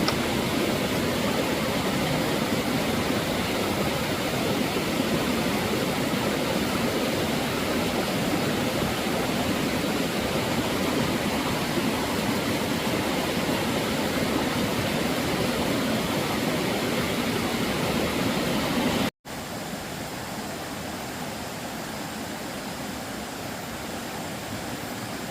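Steady rushing noise of water. It breaks off at a cut about 19 seconds in and goes on quieter after it.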